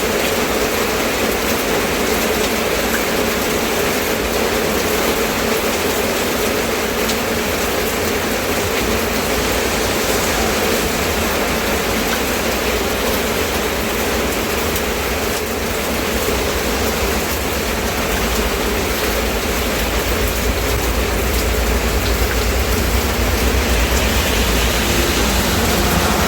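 Steady rain falling, a constant even hiss. In the second half a low rumble builds up underneath it.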